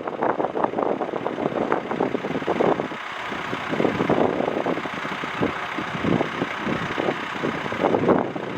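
Strong gusty wind buffeting the microphone: an uneven, rumbling rush that rises and falls in gusts.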